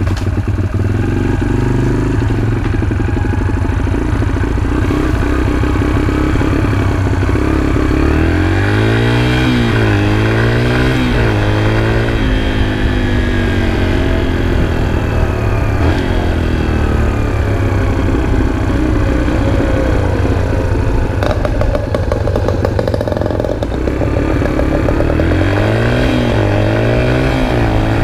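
Four-stroke dirt bike engine running, its revs falling and rising several times about ten seconds in and again near the end.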